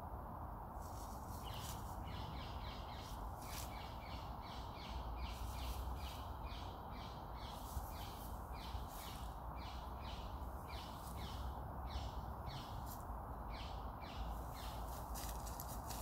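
Birds calling: a long run of short, high chirps that fall in pitch, two or three a second, over a steady low rumble.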